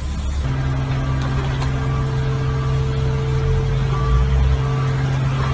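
Car engine running at a steady speed, a constant low hum with overtones; the sound changes abruptly about half a second in.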